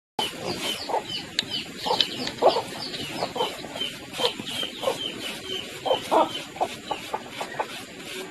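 Chickens clucking in irregular short calls over a steady stream of rapid high peeping chirps, several a second, after a brief silence at the very start.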